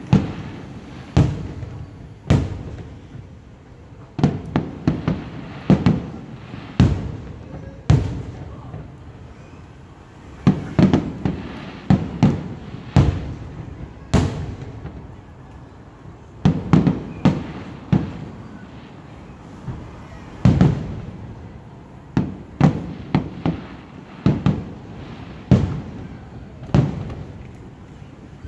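Aerial firework shells bursting in a display: a long, irregular series of sharp bangs, often several in quick succession, each trailing off in a low rumble.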